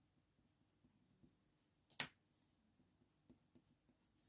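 Near silence with faint coloured-pencil strokes on paper, and one sharp tap about two seconds in.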